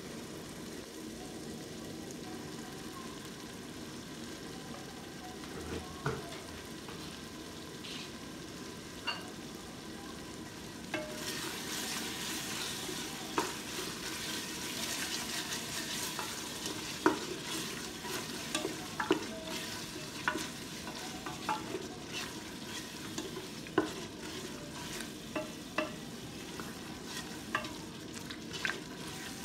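Curry masala sizzling in a pressure cooker pot. From about eleven seconds in, a wooden spatula stirs it: the sizzle grows louder, and the spatula knocks against the sides of the pot again and again.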